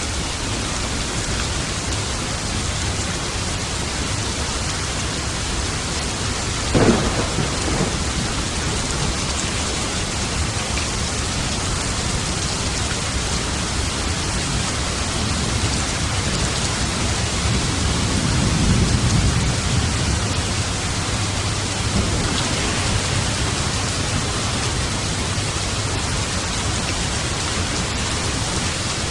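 Steady heavy rain with thunder: a sharp crack about seven seconds in, and a low rumble swelling and fading in the second half.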